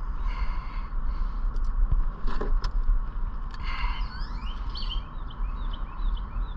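Steady low rumble, like wind on the microphone, with a few sharp clicks and several short, high chirps about four to six seconds in.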